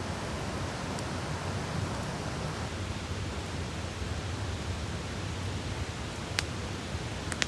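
Wood campfire burning: a steady hiss with a few sharp crackling pops, the clearest about six and a half seconds in and another just before the end.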